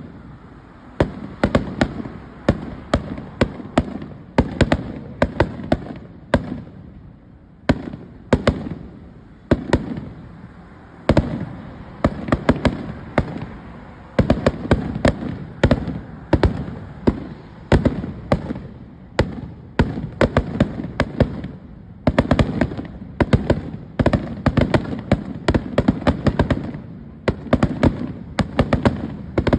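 Fireworks going off: a rapid, irregular series of sharp bangs and crackles, several a second in clusters, with a low rumble between them.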